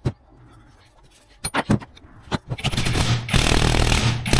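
Hands working on motorcycle front-fork parts: a few sharp metal clicks about a second and a half in, then a dense run of rapid clatter near the end.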